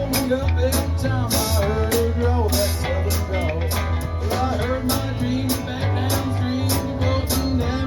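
Live band playing a country-blues rock song, with drums keeping a steady beat under a heavy bass line and a lead melody that bends up and down in pitch.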